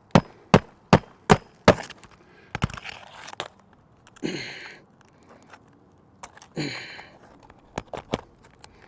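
Hammer driving a roofing nail through an asphalt shingle: five quick even strikes in the first two seconds. Scattered light taps and two short scraping sounds follow.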